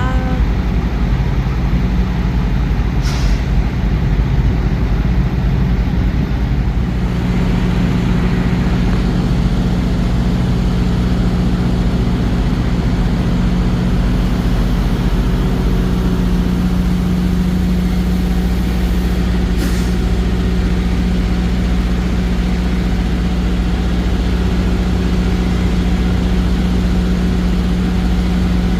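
Heavy truck's diesel engine running steadily with a deep hum; its note changes about seven seconds in. Two short sharp sounds cut through it, a few seconds in and again near two-thirds of the way through.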